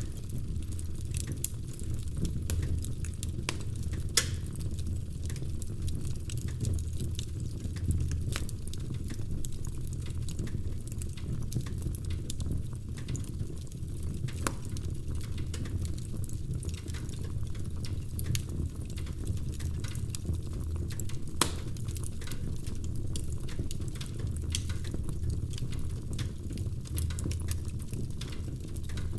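Wood fire crackling in a fireplace: a steady low rumble of the flames with frequent small crackles and a few sharper pops.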